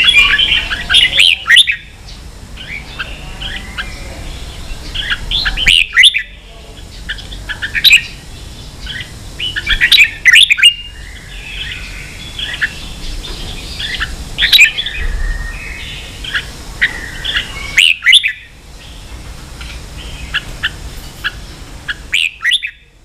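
Red-whiskered bulbul singing: repeated bursts of short, bright whistled and chirping phrases, with brief pauses between them.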